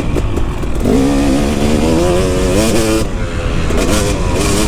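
KTM 250 SX single-cylinder two-stroke motocross bike accelerating, its revs climbing, dropping off about three seconds in as the throttle is shut or a gear is changed, then climbing again near the end.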